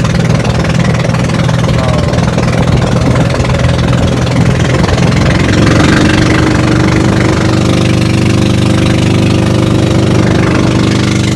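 Boat engine running steadily under way, growing a little louder and fuller about six seconds in.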